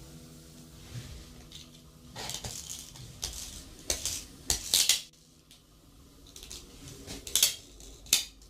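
Small hard objects clinking and rattling together: a run of sharp clicks in clusters, the loudest near the middle and a couple more near the end.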